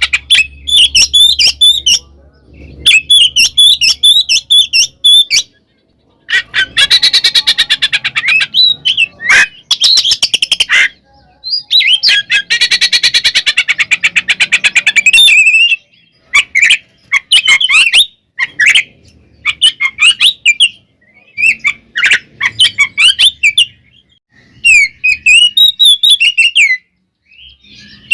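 Oriental magpie-robin (kacer) singing loudly in a full, aggressive song. Short whistled phrases alternate with long, very fast rattling chatters, two of them lasting a few seconds each.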